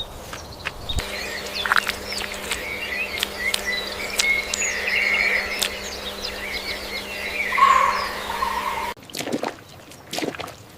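Many small birds chirping and twittering over a steady low hum. The sound cuts off suddenly near the end, and a few sharp swishing strokes follow.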